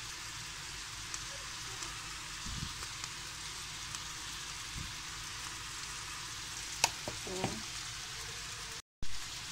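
Sliced onions and chickpeas frying in oil in a wok, a steady sizzle with a few light clicks. The sound cuts out for a moment near the end.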